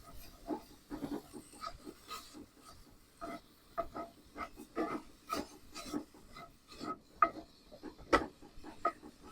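A cooking utensil scraping and chopping at ground beef in a skillet to break it up for browning, in irregular short strokes about twice a second.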